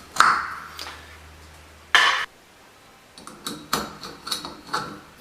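Clinks, taps and a short scrape of shower handle parts being handled and fitted onto the valve. One knock rings briefly at the start, and a quick run of small taps comes over the last two seconds.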